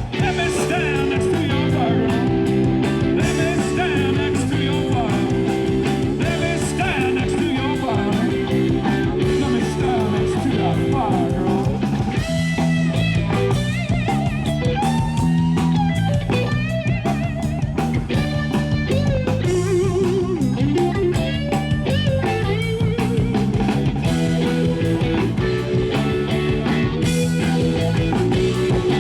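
Rock band playing: guitar lines over steady drums and bass, with bending, wavering notes through the middle.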